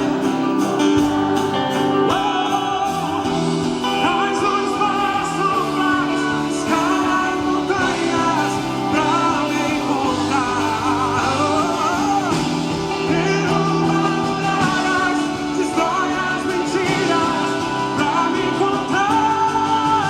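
Live worship band playing a song: a wavering melodic lead line over held chords, with no clear words.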